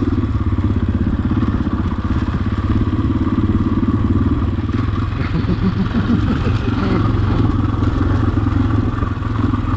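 Husqvarna enduro dirt bike engine running steadily under way, holding a fairly constant engine speed.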